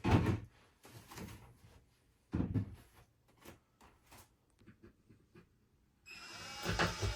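Wooden knocks and thuds from cabinet doors, drawers or panels being handled: a loud one at the start, another about two and a half seconds in, and lighter ones between. Near the end a small motor starts running and grows louder.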